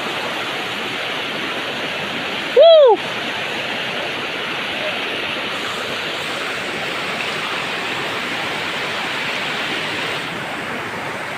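Waterfall: a steady rush of falling water. About two and a half seconds in, a brief loud whistle-like tone rises and then falls in pitch.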